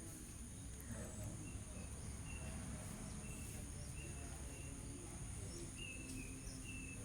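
Rainforest ambience: a steady high-pitched insect drone, with short chirps from small animals repeating every half-second or so over a low background rumble.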